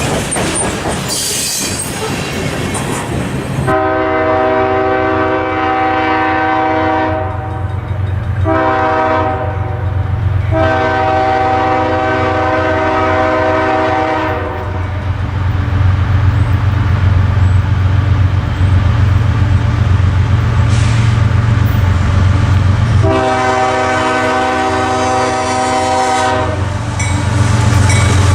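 Canadian Pacific diesel locomotive sounding its air horn: a long blast, a short one and another long one, then after a pause a further long blast near the end, over the steady low rumble of the locomotive. Before the horn starts there are a few seconds of rail noise from the passing train.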